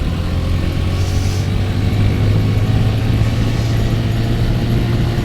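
Motorcycle engine running steadily under way, a constant low engine note that gets slightly louder from about two seconds in.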